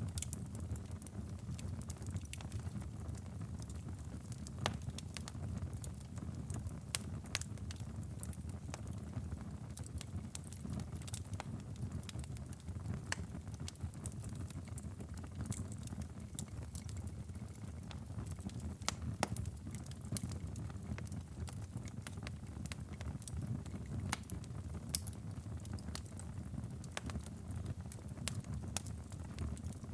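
Wood fire crackling, with irregular sharp pops scattered throughout over a steady low rumble.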